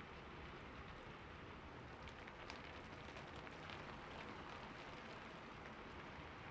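Rain falling steadily on a roof: a soft, even hiss with scattered sharper ticks of single drops.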